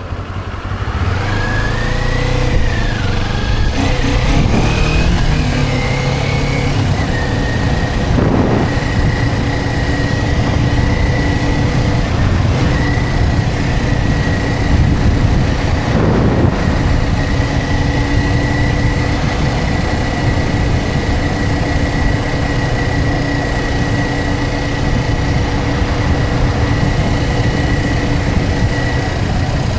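Motorcycle engine on the road, rising and falling in pitch through the first few seconds as it accelerates, then running at a steady cruising speed with heavy wind noise. Two brief whooshes come about eight and sixteen seconds in.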